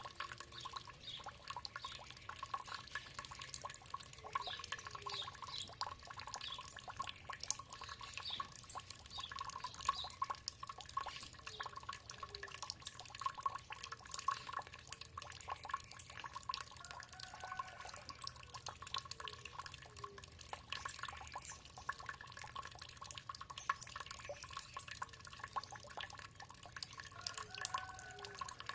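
Water dripping and trickling steadily in many quick drops, with birds calling now and then over it.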